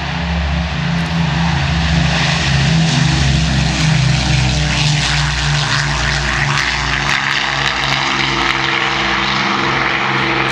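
Avro Lancaster's four Rolls-Royce Merlin V12 piston engines at full take-off power during the take-off roll, a steady multi-engine drone that grows louder over the first couple of seconds and then holds.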